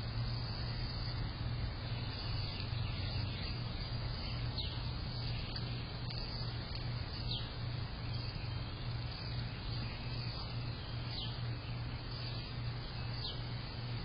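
Brief, high, down-slurred bird chirps heard at irregular intervals, about six in all, over a steady hiss and a constant low hum.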